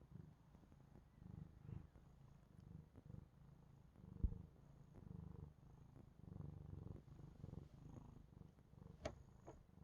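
Domestic cat purring, a low rumble that swells and fades about once a second with each breath. A short thump sounds about four seconds in, and two light clicks near the end.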